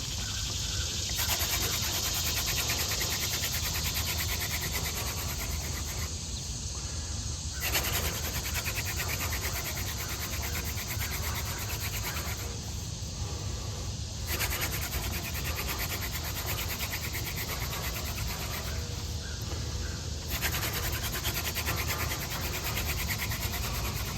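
Yucca hand-drill spindle spun back and forth between the palms on a tulip poplar fireboard: a fast, rasping wood-on-wood rub in four runs of about five seconds each, with short pauses between runs as the hands go back to the top of the spindle. The drilling is grinding out hot dust toward an ember.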